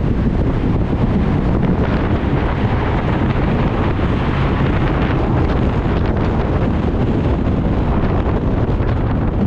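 A 1993 SAAB 900 Turbo on the move: a steady rush of wind and road noise, with the car's 2.0-litre turbo 16-valve engine running underneath.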